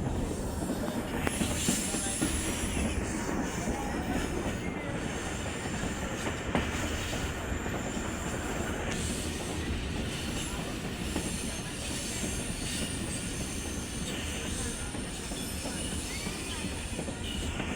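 Passenger train running along the track, a steady rumble of wheels and carriages with faint high squeals from the wheels at times.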